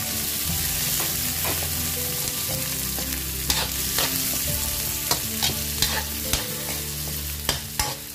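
Sliced onion and minced garlic sizzling in hot oil in a wok, stirred with a metal spoon that clicks and scrapes against the pan about once a second.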